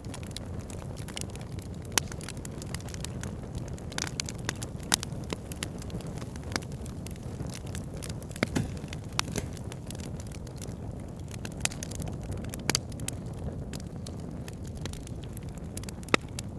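Fire burning in a fireplace: a steady low rushing of flames with frequent irregular crackles and sharper pops, the loudest about two, five and sixteen seconds in.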